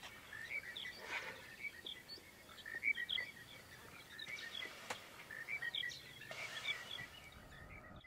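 Faint chirping bird calls, short and repeated at irregular intervals, over a light outdoor background hiss.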